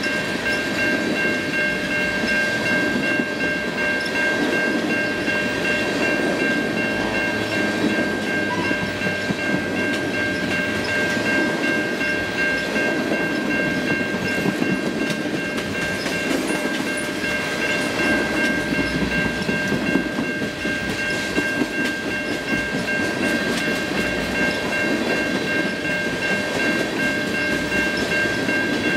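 Freight train of tank cars rolling past: steady wheel rumble and clatter on the rails, with a thin steady high-pitched tone over the rumble.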